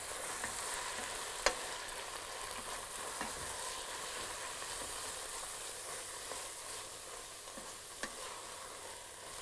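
Chopped capsicums, mushrooms and onions sizzling steadily in a stainless steel stockpot while being stirred with a wooden spoon. The spoon knocks against the pot about one and a half seconds in and again near the end.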